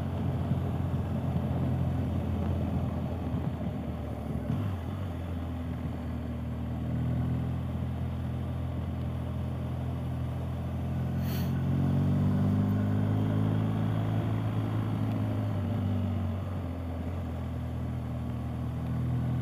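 BMW R 1250 GS Adventure's boxer-twin engine running under way, with wind and road noise. The engine note rises about twelve seconds in and drops back a few seconds later.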